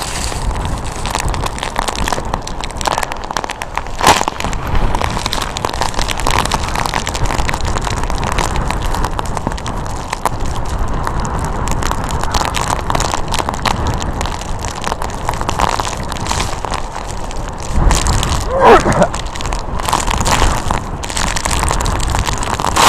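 Typhoon-force wind buffeting a microphone: a loud, continuous rushing roar with deep rumble and crackling gusts.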